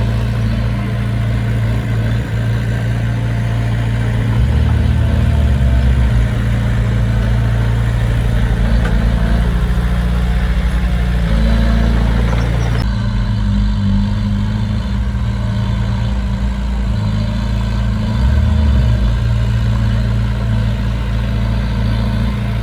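Heavy diesel engine of construction machinery running steadily, its low note shifting briefly a few times.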